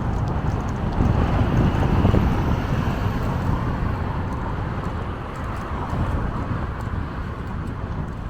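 Wind rushing over the microphone of a camera on a moving bicycle, with a heavy low rumble. It is strongest between about one and two and a half seconds in, and eases a little after about four seconds.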